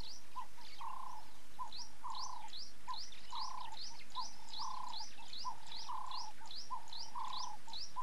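Birds calling: a lower two-note call, short then longer, repeats about once a second, over quick rising high chirps about two or three times a second.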